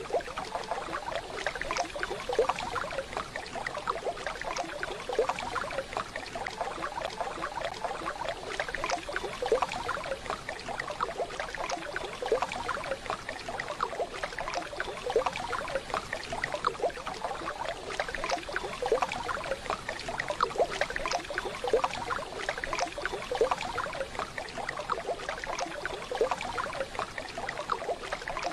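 Waterfall water running steadily, a dense even wash of small splashes.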